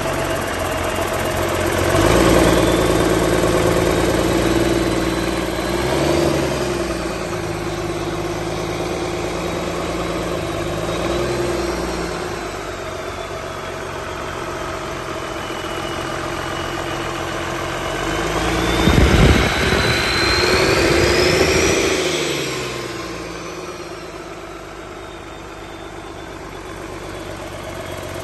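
Cummins 6CT 8.3-litre turbocharged inline-six diesel engine running. It idles, is revved up early on and blipped twice, then revved higher and held before dropping back to a steady idle. A whine rises and falls with the revs.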